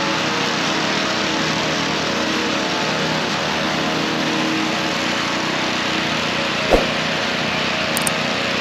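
Small gas engine of a power hedge trimmer running steadily at working speed, with one sharp knock about two-thirds of the way through.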